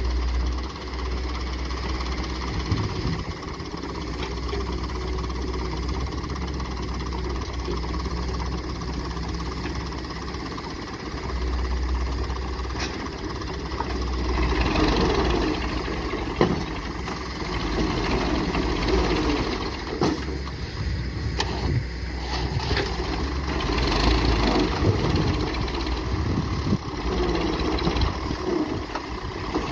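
Massey Ferguson 240 tractor's three-cylinder diesel engine running continuously, its sound growing louder about halfway through and again near the end.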